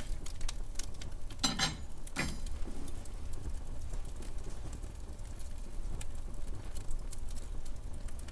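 Wood fire in a fireplace crackling, with a few louder pops about one and a half to two seconds in, over a low steady rumble.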